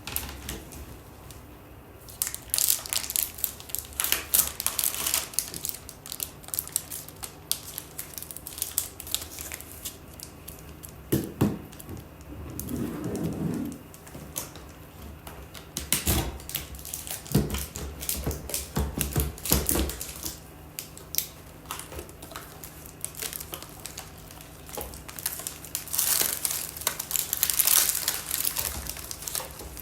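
Plastic crinkling and crackling in irregular bursts of clicks, over a faint steady hum.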